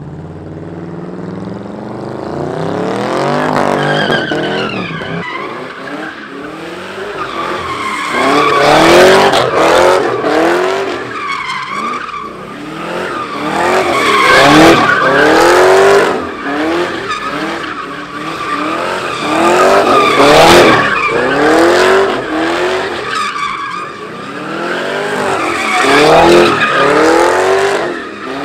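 Car engine revved hard over and over, its pitch swinging up and down about once a second, with tyres squealing as the car spins in a burnout. The sound surges louder in waves.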